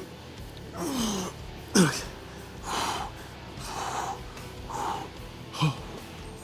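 A weightlifter's hard breathing while straining through a set: sharp exhales about once a second, with a couple of short grunts that fall in pitch, as he works on reps close to failure. Faint background music underneath.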